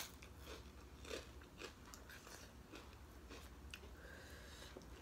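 A person chewing food close to the microphone: faint, scattered crunches and mouth clicks.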